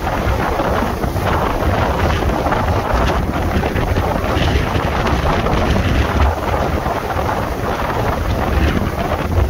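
Tropical-storm wind blowing hard across the microphone: a steady rushing noise with a heavy, uneven low rumble from the gusts buffeting the mic.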